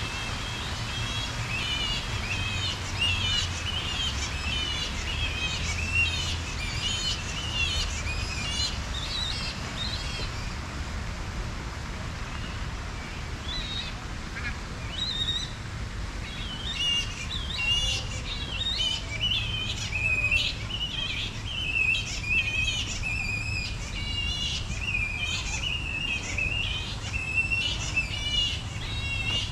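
Birds chirping in quick, repeated calls, a dense run that thins out for a few seconds about midway and then picks up again, over a low steady rumble.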